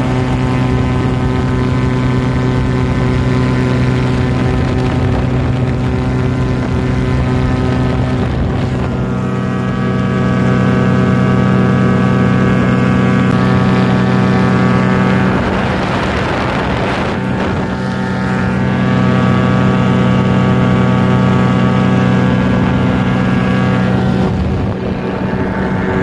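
Paramotor engine and propeller running steadily in flight. The engine note rises about a third of the way in, drops away briefly near the middle before coming back up, and dips once more near the end as the throttle is eased and reopened.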